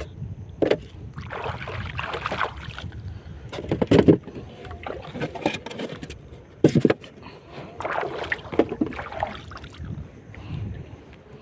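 Irregular knocks and handling noises aboard a small boat, over a steady low rumble.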